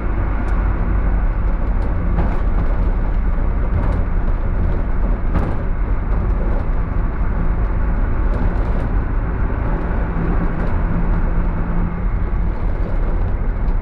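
Minibus engine and road noise, a steady low rumble with a few faint clicks and rattles. No brake whistle stands out.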